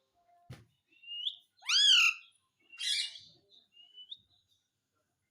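Pet parrot calling in a series of short calls: a brief rising whistle, then a loud arching squawk, a harsher call, and a short rising chirp about four seconds in. A single click comes just before the calls.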